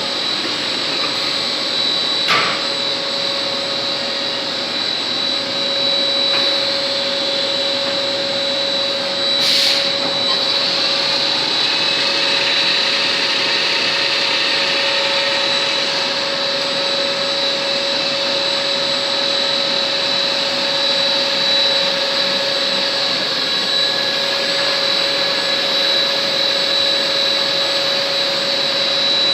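Compact automatic CNC lathe running with a steady mechanical hum and constant high whine, with two short clicks, one about 2 seconds in and one about 10 seconds in.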